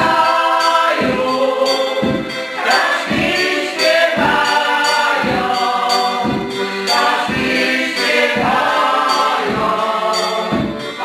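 A folk vocal ensemble singing a song together, with a steady low beat about once a second under the voices.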